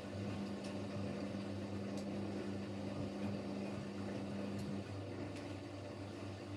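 Siemens Siwamat Plus 574 washing machine running between the end of its softener rinse and the short spin: a steady machine hum, with one tone that cuts off about five seconds in, and a few faint clicks.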